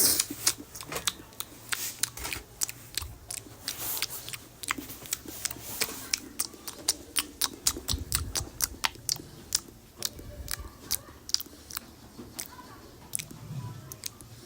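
Close-miked eating: crisp crunching bites and chewing, several sharp clicks a second, thinning out near the end.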